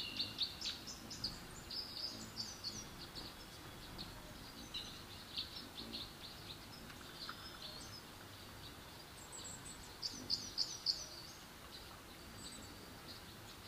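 Small birds chirping and twittering: many short high chirps and quick down-slurred notes, with a busier run about ten seconds in.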